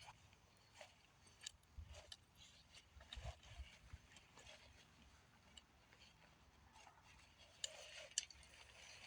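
Near silence broken by faint scattered clicks and rustles, with a few soft low thumps a couple of seconds in and a sharper tick or two near the end.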